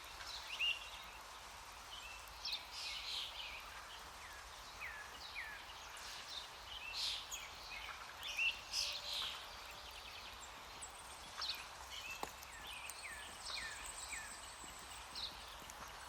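Several birds chirping and calling in short notes, some of them falling in pitch, over a steady faint hiss of outdoor background noise.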